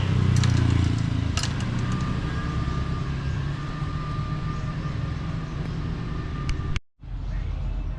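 Steady low engine rumble with a few light clicks. The sound drops out briefly near the end.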